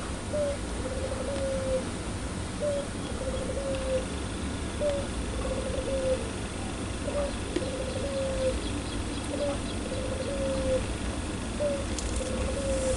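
Puter pelung dove, a domestic ringneck dove, cooing over and over: each phrase is a short note followed by a longer rolling coo that falls slightly, repeated about every two seconds over a steady low hum.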